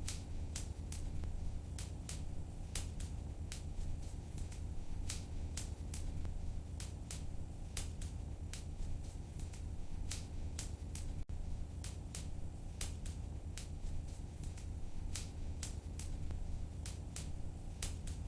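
Wood fire in a fireplace crackling, with sharp irregular pops a few times a second over a low steady rumble of the flames.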